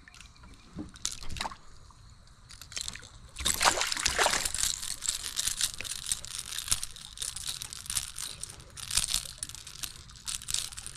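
Water splashing and sloshing close by in irregular bursts, starting about three and a half seconds in after a few scattered drips.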